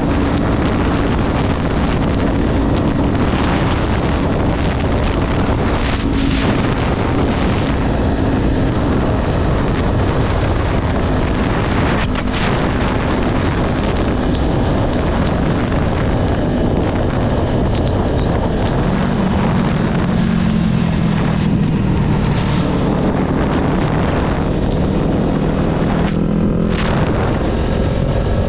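Heavy wind rushing over the microphone while riding a Kawasaki Ninja 400, its parallel-twin engine running underneath, with the engine pitch rising and falling as speed changes, mostly in the second half.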